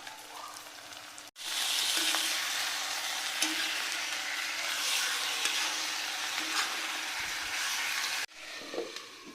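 Goat meat (mutton) frying in hot oil with browned onions: a loud, steady sizzle. It starts abruptly about a second in and cuts off near the end.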